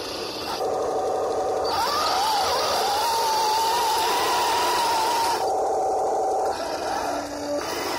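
Electric drive motors and gearboxes of a 1:16 Heng Long M26 Pershing RC tank with metal tracks, whining as it drives. The pitch rises about two seconds in and then wavers as the speed changes.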